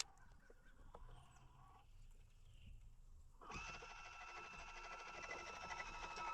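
Fishing reel being cranked, a steady geared whir with fast fine clicking that starts about halfway through as the lure is retrieved.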